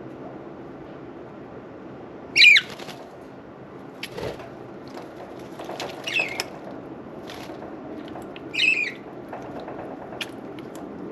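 Budgerigars chirping three times in short sweeping calls over the steady trickle of a small water fountain, with light clicks and a soft knock about four seconds in.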